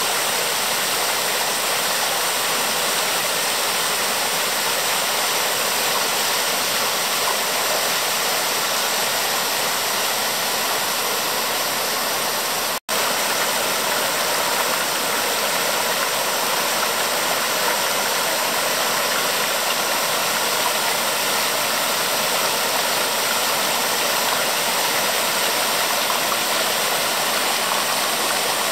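Waterfall: a steady rush of falling water, broken by a split-second gap about halfway through.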